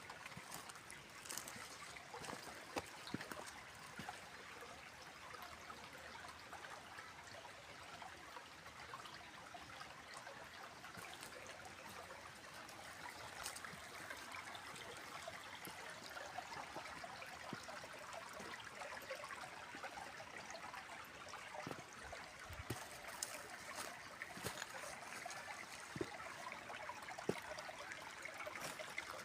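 A small stream trickling steadily, with a few brief clicks here and there.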